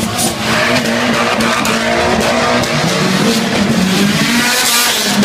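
Car engines revving, rising and falling, and echoing off the walls of a concrete road tunnel. Near the end comes a burst of tyre noise.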